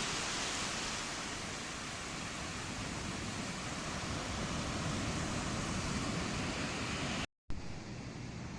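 Ocean surf washing onto a sandy beach, a steady hiss of low waves. It cuts out abruptly for a moment about seven seconds in and comes back quieter and duller.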